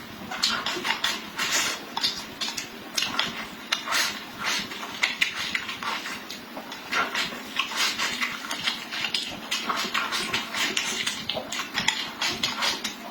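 Close-miked eating: wet chewing and lip-smacking in quick, irregular smacks.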